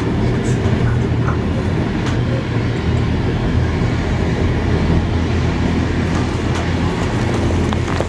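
Steam-hauled heritage train running along the line: a steady, loud low rumble with a few sharp clicks.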